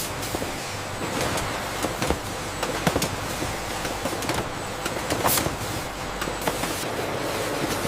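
Factory machinery running steadily, with irregular clicks and clanks over it.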